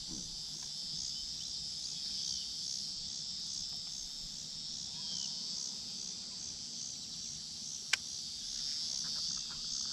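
Chorus of insects, probably crickets, chirping in a steady high pulse about twice a second, with one sharp click about eight seconds in.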